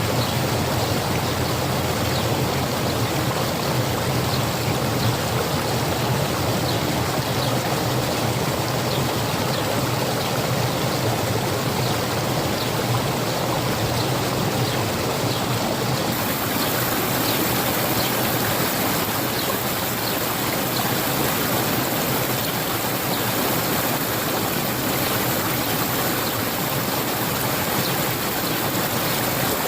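Water from a spring running steadily: a constant even rush of flowing water, with faint small ticks above it.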